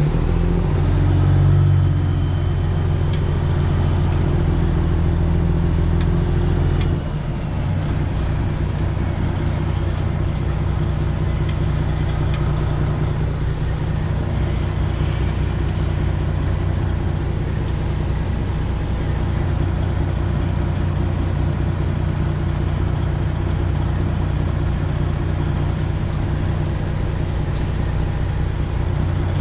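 Freightliner Classic XL's Detroit Diesel 12.7-litre engine running at low speed while the semi truck backs slowly into a dock; it pulls harder for about the first seven seconds, then eases off to a steady idle.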